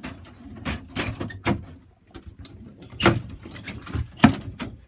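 Handling noises at pigeon nest boxes: a series of sharp knocks and scrapes as nest box fronts are moved. The loudest knocks come about three seconds in and again just after four seconds.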